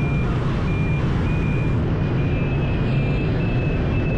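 Motorbike riding along a highway: engine, wind and traffic rumble, with a short high beep repeating about twice a second.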